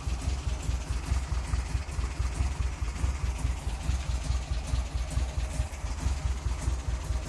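The engine of a 1997 Baby car idling with a steady, deep, evenly pulsing exhaust rumble.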